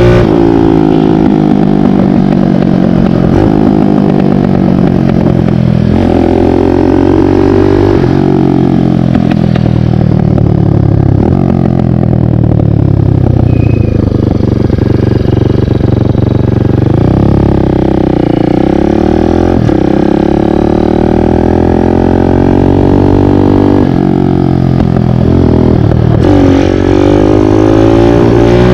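Kawasaki KLX dirt bike with a 178cc big-bore kit being ridden, its engine pulling up through the revs and falling back again and again as the rider works the throttle and gears. The pitch drops lowest about two-thirds of the way through, then climbs again.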